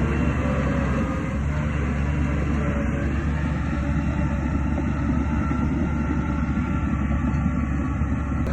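Shantui DH17C2 crawler bulldozer's diesel engine running steadily under load, with a continuous low rattle of its tracks.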